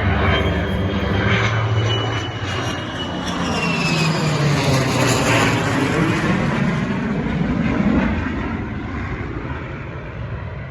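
Airplane flying past, its engine noise swelling as it passes and then fading away near the end, with a high whine that falls slightly in pitch as it goes by.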